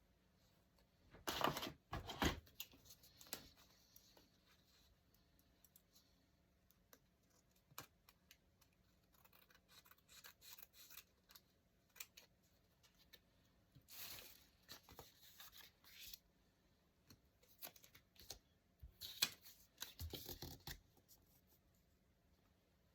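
Close-up paper handling in journal-making: three short bursts of paper noise, one about a second in and two more in the second half, with small taps and ticks between.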